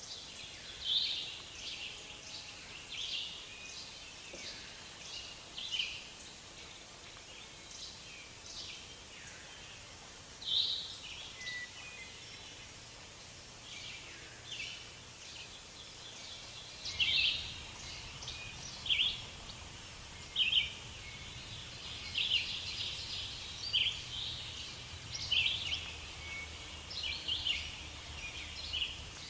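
Small birds chirping in short, irregular calls over a steady background hiss. A low rumble joins about seventeen seconds in.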